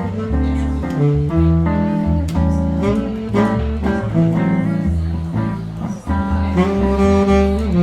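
Guitar-led instrumental music: a slow melody of plucked notes over bass notes.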